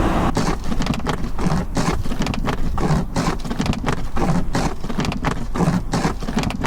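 Footsteps crunching through deep snow at about one step a second, with a dense crackle of packed snow under each step.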